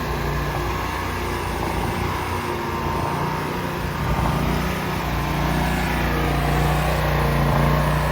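An engine running steadily at a constant speed, swelling slightly louder a couple of times.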